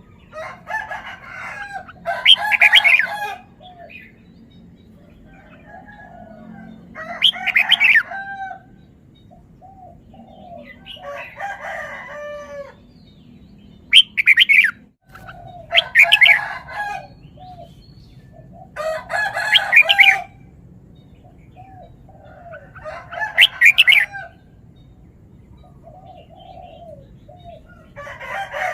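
Red-whiskered bulbul singing: short, loud, warbling phrases repeated every few seconds with pauses between them.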